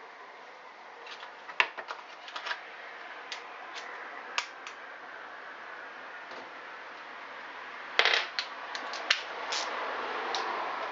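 Metal hand tools clicking and clinking against the motorcycle engine as a 10 mm spanner or socket is put to work. Scattered sharp clicks, in a cluster about a second and a half in and another about eight seconds in.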